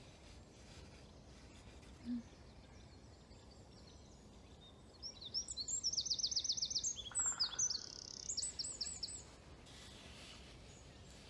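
A songbird sings a fast, high song of rapidly repeated trilled notes, starting about five seconds in and lasting about four seconds. A brief low sound comes about two seconds in.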